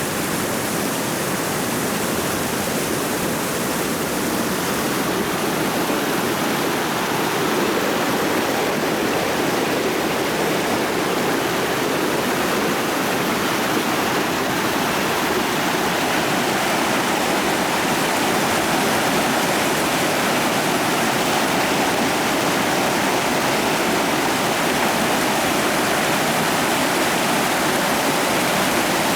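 Creek water running and splashing over rocks, a steady rushing.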